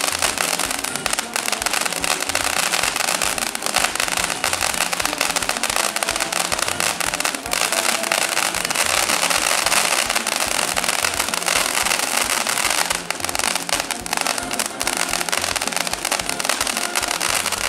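TNT Fireworks 'Neon Force' consumer firework burning with a steady hiss and dense crackling, mixed with background music with a beat.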